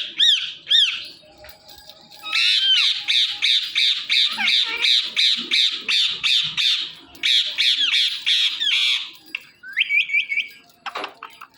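Indian ringneck parrot calling: two arched screeches, then long rapid runs of harsh squawks at about five a second, ending in a few short rising chirps.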